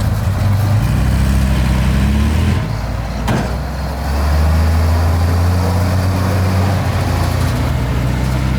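Heavy diesel earthmoving machinery engine running loudly, its pitch and level shifting about three seconds in as the load changes, with a single sharp click in the middle.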